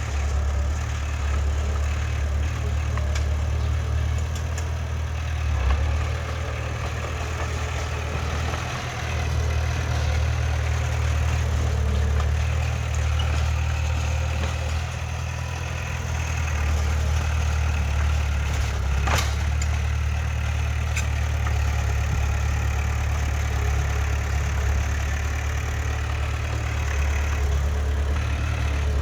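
Heavy earthmoving machine's diesel engine running steadily with a deep drone, with a single sharp knock about two-thirds of the way through.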